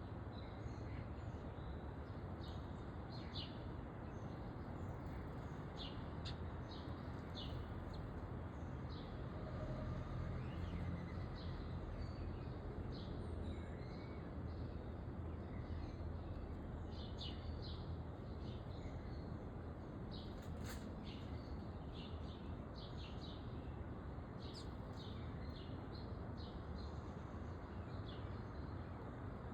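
Small backyard songbirds giving many short, high chirps, scattered through the whole stretch and thickest about two-thirds of the way through, over a steady low background rumble.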